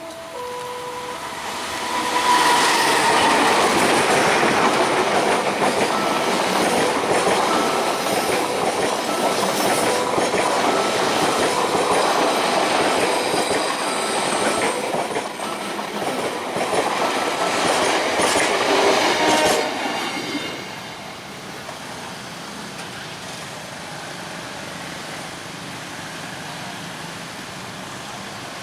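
A train passing at speed, wheels clattering over the rails with some squeal, loud for about 18 seconds and then stopping abruptly about 20 seconds in. The tail of its horn fades in the first second.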